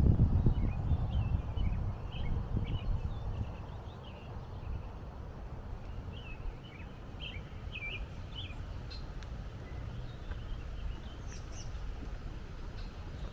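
Small birds chirping in short, scattered notes over an uneven low rumble, which is louder for the first few seconds and then settles to a steadier background.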